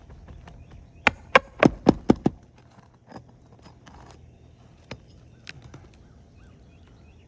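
A quick run of about seven sharp knocks, roughly five a second, from a hand tool working on an asphalt shingle roof while shingle nails are being taken out. A few scattered faint clicks and scrapes follow.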